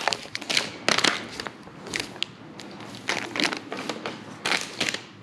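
Irregular crinkling and crackling of packaging being handled, in short uneven spells with a few sharp clicks.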